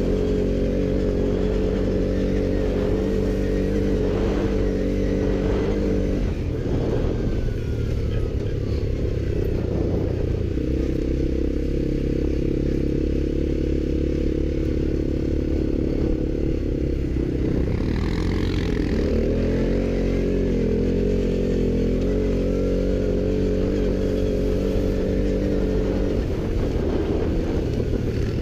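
ATV engine running continuously, its speed shifting several times as the throttle changes.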